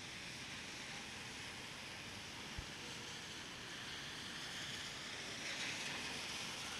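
Steady hiss of rain falling on a city street, swelling louder for about a second around five seconds in. A faint low thump about two and a half seconds in.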